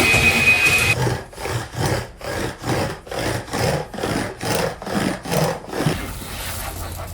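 A vacuum cleaner runs with a high whine and cuts off about a second in. Then comes a floor being wiped by hand with a cloth: even back-and-forth rubbing strokes, about two a second, for some five seconds.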